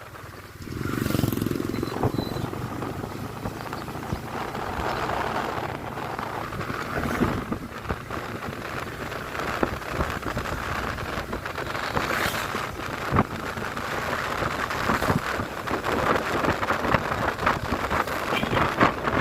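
Motorcycle under way on the road: steady engine and road noise with rough wind rush on the microphone, which gets louder about a second in.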